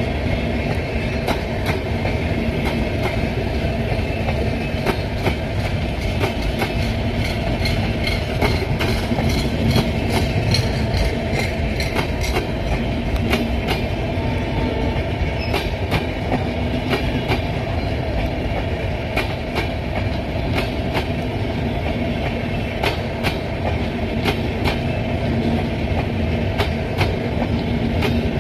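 Passenger train running steadily, its wheels clicking over rail joints over a continuous rumble.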